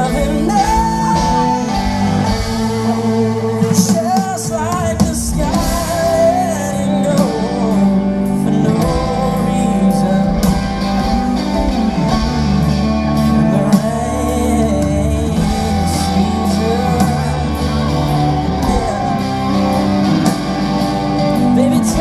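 Live pop-country band performance: a male lead singer sings a chorus over guitars and drums.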